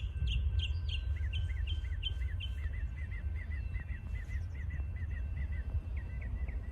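Northern mockingbird singing: it repeats one short whistled note several times, then switches about a second in to a different, quicker repeated note, over a steady low rumble.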